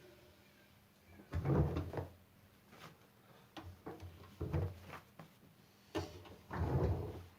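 Siemens Siwamat C10 washing machine knocking and thudding: a run of dull knocks, with two longer, heavier thuds about a second and a half in and near the end.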